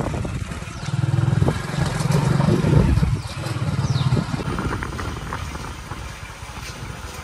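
Small two-wheeler engine running as it is ridden along, louder for a few seconds about a second in, then easing off.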